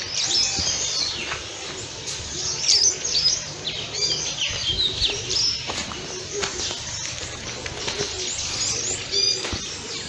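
Several small birds chirping and twittering, many short high calls overlapping continuously, with a few faint clicks between them.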